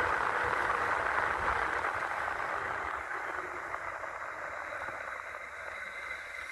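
Wind rushing over the microphone with road noise from a fast-moving electric bike, a dense, even rush that fades steadily as the bike loses speed.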